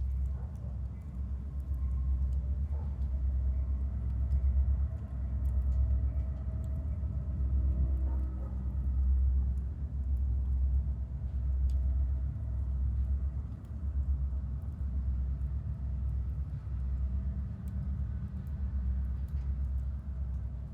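A wood fire crackling in a chiminea, with sparse small pops, over a loud, continuous low rumble that swells and fades.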